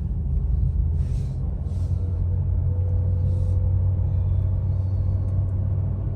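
Steady low rumble of a moving car heard from inside the cabin: engine and tyre road noise, with a faint steady hum above it.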